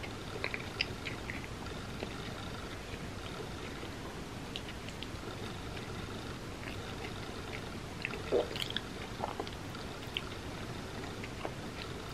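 Close-miked chewing: soft, wet mouth clicks and smacks of someone eating a mouthful of sweet food, over a steady low hiss. One louder smack comes about eight seconds in.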